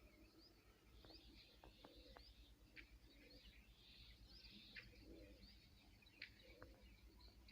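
Faint morning chorus of many small birds chirping, short quick calls overlapping, over a steady low hum.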